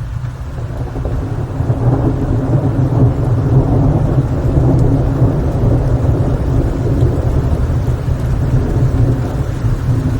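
Long low rumble of thunder that swells over the first couple of seconds and keeps rolling, over steady rain.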